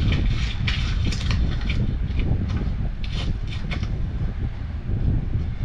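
Short metallic clinks and scrapes of fittings and tools as a furnace gas valve is worked into place, more frequent in the first half and a few again around three seconds in, over a steady low rumble.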